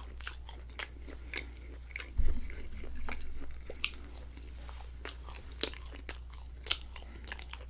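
Close-miked chewing and biting of crusty garlic bread: scattered sharp, crisp crunches, with a louder dull thump about two seconds in.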